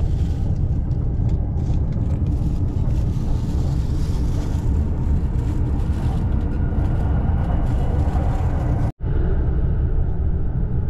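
Running noise of a Tokaido Line commuter train heard inside the passenger car: a steady low rumble with hiss over it. The sound drops out for an instant near the end.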